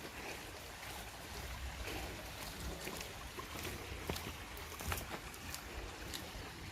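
Outdoor ambience: low, fluctuating wind rumble on the microphone under a steady hiss, with scattered light clicks and ticks.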